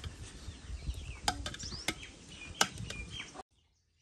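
Small birds chirping over outdoor rural ambience, with three or four sharp clicks. Everything cuts off suddenly about three and a half seconds in.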